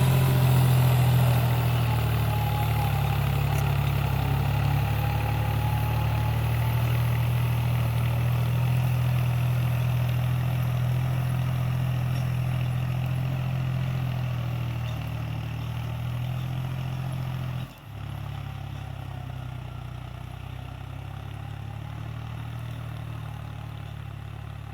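New Holland tractor's diesel engine running steadily, slowly growing fainter, with a momentary dropout about three-quarters of the way through.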